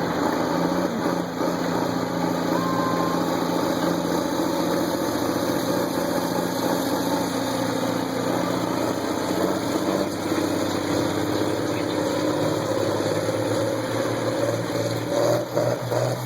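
Antique farm tractor engine running steadily under load during a tractor pull, its pitch holding nearly even with a slight change partway through.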